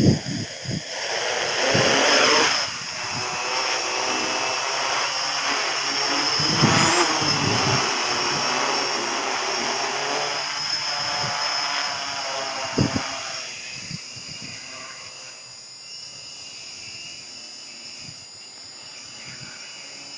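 Hexacopter's six electric motors and propellers running with a steady high whine, while strong wind buffets the microphone in irregular gusts. The sound gets quieter about two-thirds of the way through.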